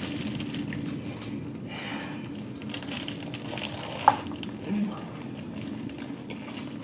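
Close-up chewing of a big bite of hamburger: wet mouth sounds with small crunches, and the paper wrapper rustling under her hands. A short squeak about four seconds in.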